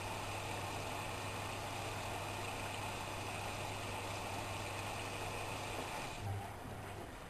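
Whirlpool washing machine taking in water: a steady rushing hiss of water through the inlet with a low hum, which cuts off abruptly about six seconds in. A soft knock follows.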